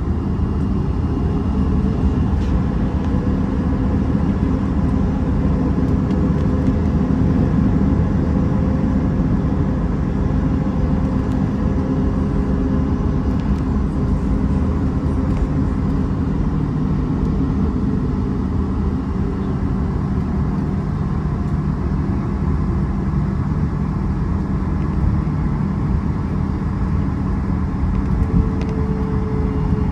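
Steady low engine rumble with a few faint held tones.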